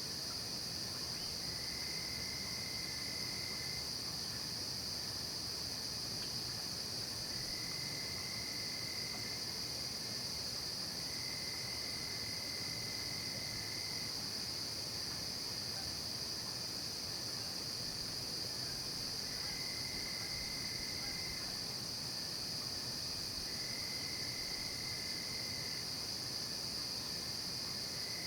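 Night insect chorus of crickets: a steady high-pitched drone, with a lower trill that sings for about two seconds at a time and then stops, several times over.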